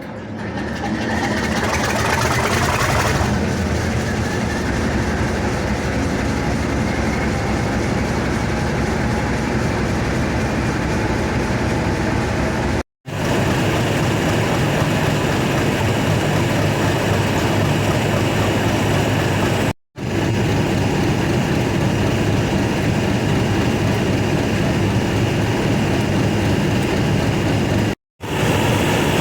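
Class 50 diesel locomotive's English Electric 16-cylinder engine running with a steady heavy diesel sound, building up over the first second. It is broken by three brief silent cuts.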